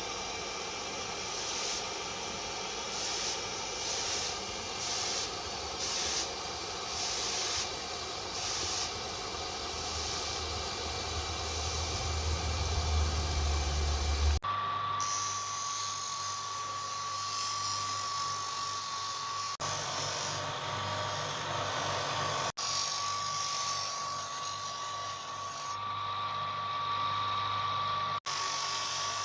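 Electric grinder running against steel, a steady high-pitched tool whine across several edited shots, with the pitch and sound changing at each cut.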